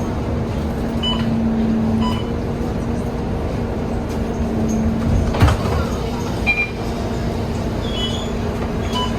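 Interior of a Scania K230UB bus on the move: a steady engine hum and road rumble. There is one sharp knock about halfway through, and short high beeps about a second apart near the start and near the end.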